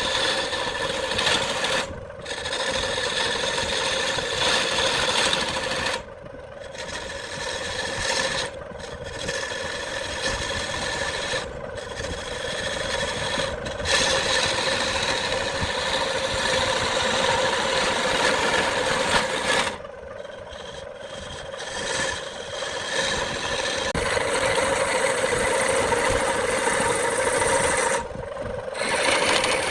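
Wood lathe motor whining steadily while a tool works the spinning wood-and-epoxy blank with a rough scraping hiss, the tool lifted off the piece for a moment several times.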